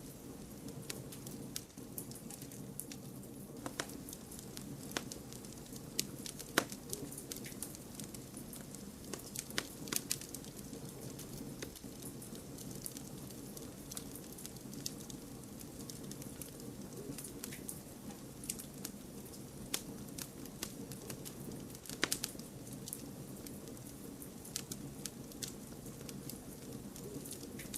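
Campfire burning with irregular crackles and sharp pops over a steady low hiss, a few pops louder than the rest.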